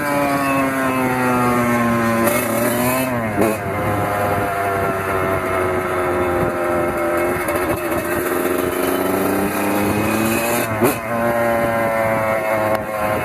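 Kawasaki KX100 two-stroke single-cylinder dirt bike engine running under way. The revs sink slowly, dip sharply and pick up again about three seconds in, then climb steadily before another sharp dip near the end.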